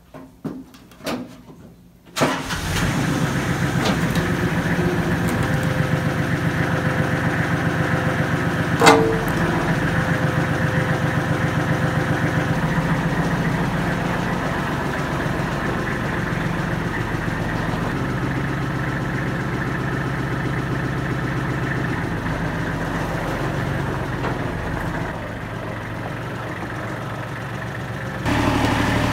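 Kubota L35 tractor-backhoe's diesel engine starting about two seconds in and then running steadily, with one brief sharp sound about nine seconds in. The engine note drops slightly near the end and picks up again just before the end, as the backhoe's freshly resealed hydraulics are tried out.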